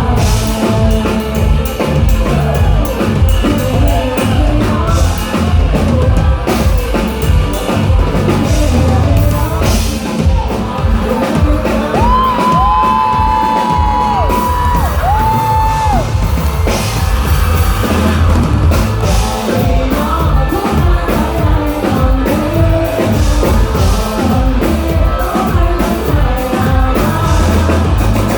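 Live rock band playing a song at full volume: a pounding drum kit, guitars and singing, with two long held notes in the middle.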